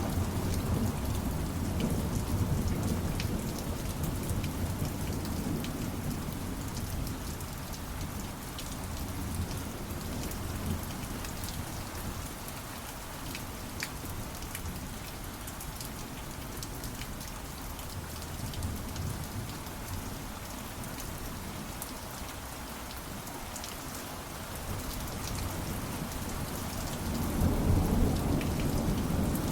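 Steady rain falling, with rolling thunder: a low rumble in the first few seconds that swells again near the end.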